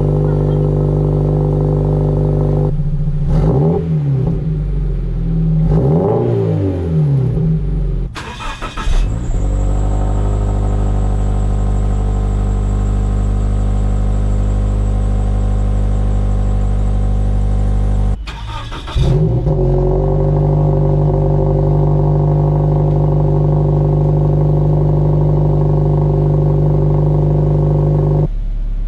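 Scion FR-S's flat-four boxer engine running through a newly installed Corsa exhaust: a steady idle, revved up and down a few times a few seconds in, then back to a steady idle.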